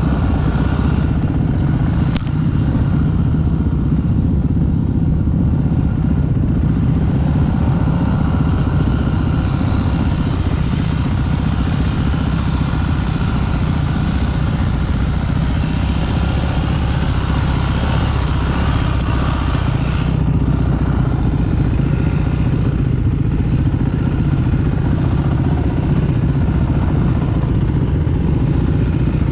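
Off-road motorcycle engine running steadily while riding.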